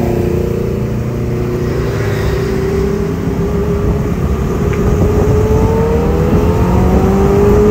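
Motorbike engine running while riding at speed, with wind and road rush over the microphone. The engine note climbs slowly and steadily.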